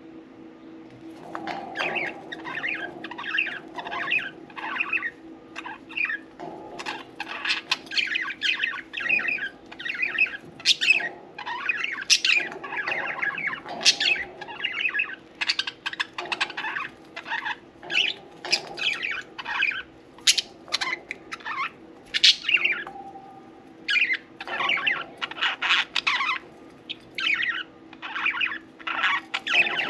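Several budgerigars chirping and chattering in quick, busy, overlapping bursts of short sharp calls, with brief pauses. A steady low hum runs underneath.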